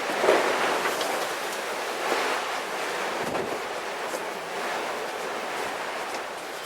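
Wind rushing, a steady hiss that swells and eases in gusts.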